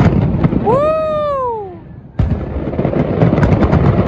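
Display fireworks bursting in a dense run of bangs and crackles. Near the start, a single long whoop rises and then falls in pitch over about a second. The bursts ease off briefly, then a sharp bang about two seconds in starts the crackling again.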